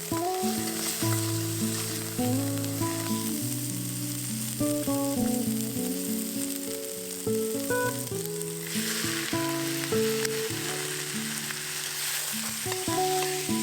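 Food frying in oil in a pan, a steady sizzle that grows louder about nine seconds in, under background music of held melodic notes.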